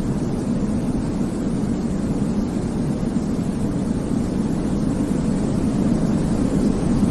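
Steady, even sleep-aid noise, deep and rumbling rather than hissy: a continuous low whoosh with no change or rhythm.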